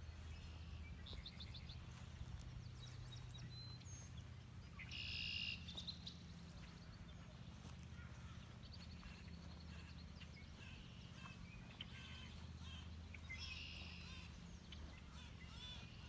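Several birds singing and calling: scattered chirps and short trills, loudest about five seconds in and again near the end, over a faint steady low hum.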